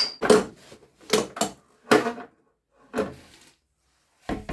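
A series of about seven sharp, irregular knocks on metal, each ringing briefly: parts being tapped out of a motorcycle wheel.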